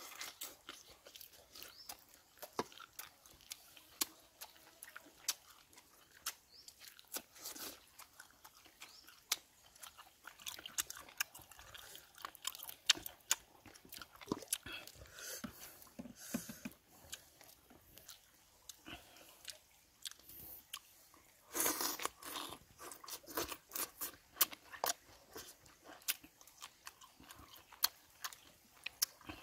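Close mouth sounds of a man eating boiled pig intestine: chewing and biting with many short wet clicks and lip smacks, and a louder stretch about three quarters of the way in.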